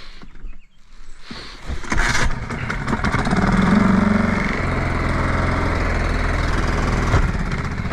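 Small 4 horsepower Yamaha outboard motor starting: it catches about two seconds in, rises in speed briefly and settles into a steady run.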